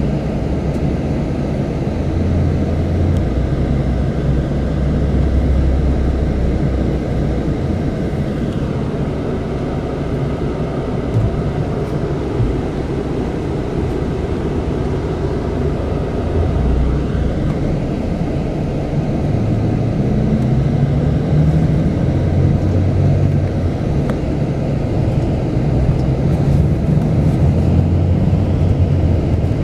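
Steady low rumble of a moving Scania K400 double-decker coach, engine and road noise heard from inside the passenger cabin. The engine note rises about two-thirds of the way through as the bus picks up speed.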